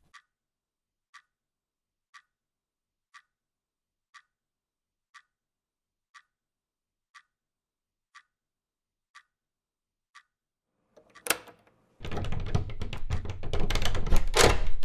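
Clock ticking steadily about once a second. About eleven seconds in there is a sharp click, then a loud, dense rattling noise for the last three seconds, as the door is rattled at its lever handle.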